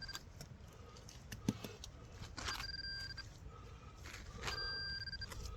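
Handheld metal-detecting pinpointer sounding a steady high beep three times, each under a second, as it is probed in a dug hole and finds more metal. A single dull knock about a second and a half in.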